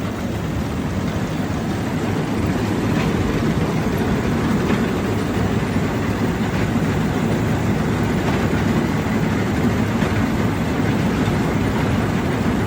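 OVS-25 grain cleaner running: a steady mechanical rumble and rattle, getting a little louder over the first couple of seconds and then holding even.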